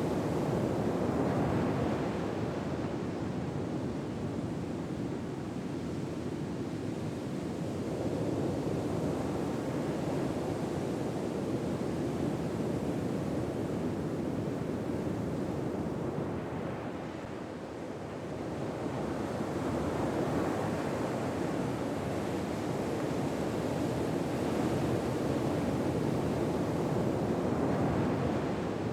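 Recorded ocean surf: waves washing in and receding in slow swells of steady rushing noise, easing into a lull a little past halfway before building again.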